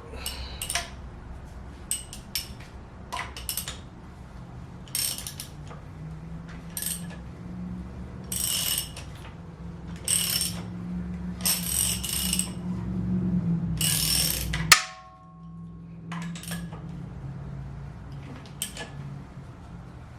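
A socket ratchet clicking in repeated short strokes as the KX450F's crankshaft is turned over by hand, checking that the cam timing stays at top dead center. A steady low hum underneath cuts off with a sharp click about three-quarters of the way through.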